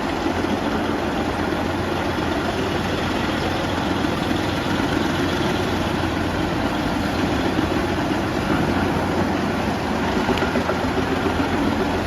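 Truck-mounted wood chipper running steadily, its engine and machinery making an even, continuous drone with no let-up.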